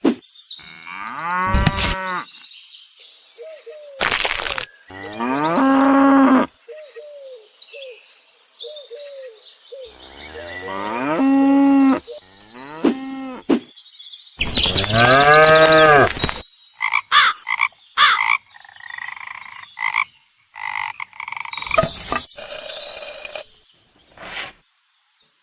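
A series of long drawn-out animal-like calls, each rising and then falling in pitch, about four of them, with shorter, softer chirping calls in between.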